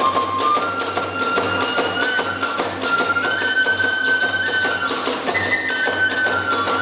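Hiroshima kagura ensemble music: a bamboo flute holds a stepping melody over rapid, steady drum beats and cymbal clashes.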